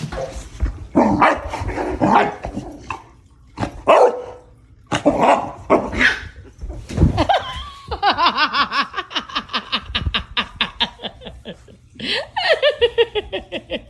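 A dog barking several times, followed by a long run of rapid, pulsing laughter.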